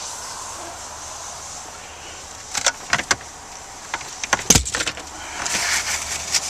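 Several sharp clicks and one heavier thump about four and a half seconds in, then a short scrape, as the car's rear cargo area and its cargo cover are handled, over a steady hiss.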